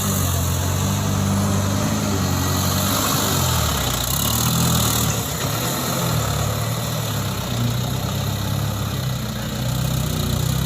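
Isuzu Elf dump truck's diesel engine running steadily; its pitch dips and rises again between about four and seven seconds in.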